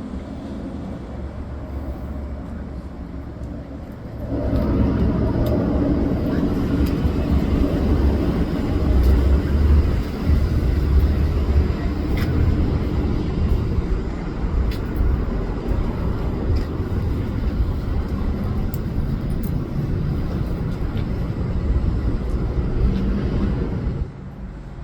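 Motorcycle engine running close by. It grows sharply louder about four seconds in and drops back near the end.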